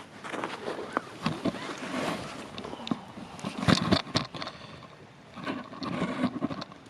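Wood fire crackling, with irregular snaps and pops and a few louder knocks, the loudest a little under four seconds in.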